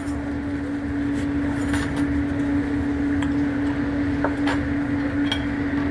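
Steady low hum and rumble, with scattered light clinks of cutlery against plates during a meal.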